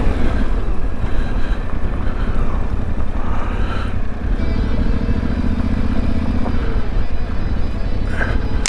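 Yamaha Ténéré 700's parallel-twin engine running as the bike rides a gravel road, with a steady low rumble of engine, tyres and wind; the engine hum stands out more clearly about five seconds in.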